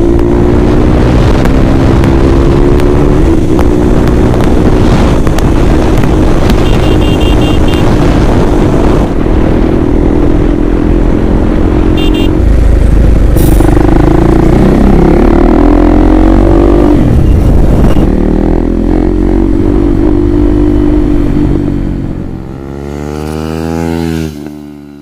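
KTM Duke 390's single-cylinder engine through a replica SC Project aftermarket exhaust, loud while the bike is ridden, its revs rising and falling with the throttle. Near the end the engine note sweeps down and back up before dropping away.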